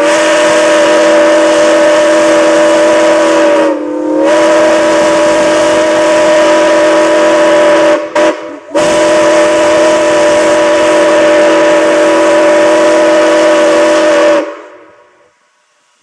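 Soo Line 1003's steam locomotive whistle blown in one long multi-note chord, with a short dip about four seconds in and two quick breaks around eight seconds. It cuts off about a second and a half before the end.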